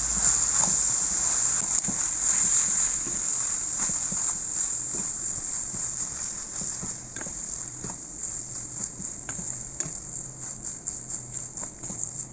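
Glass noodles, chicken and vegetables sizzling in a hot pan while a spatula stirs and tosses them, knocking and scraping against the pan. The high sizzle slowly dies down and the spatula taps come thicker toward the end.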